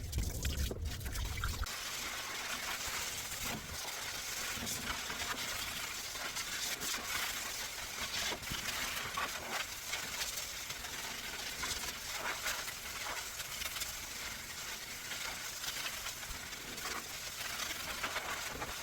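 Water spraying steadily onto a dog's coat during a bath, an even hiss; a low rumble underneath stops after about a second and a half.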